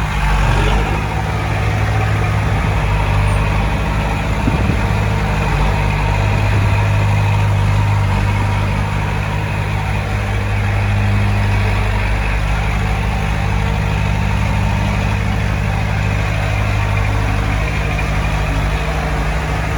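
Heavy machinery's diesel engine running steadily, with a deep, even drone and small rises and falls in pitch.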